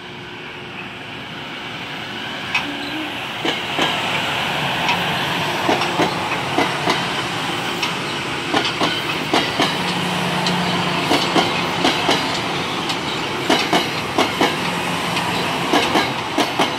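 Metro-North electric multiple-unit commuter train passing close by, its wheels clacking over rail joints in quick repeated pairs over a steady running hum. It grows louder over the first few seconds as it draws near.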